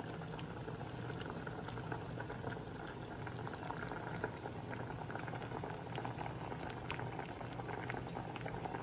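A pot of water at a rolling boil, bubbling steadily with many small pops and crackles.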